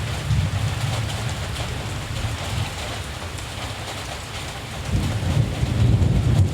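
Steady rain falling, with a low rumble of distant thunder underneath that swells louder about five seconds in.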